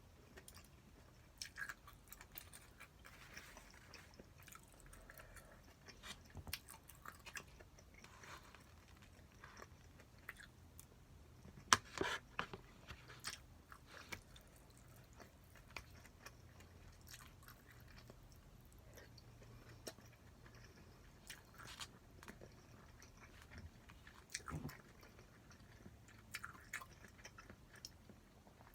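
A person chewing and eating spicy stir-fried pork, faint and close, with scattered small clicks and short crunchy sounds. The sharpest click comes about twelve seconds in.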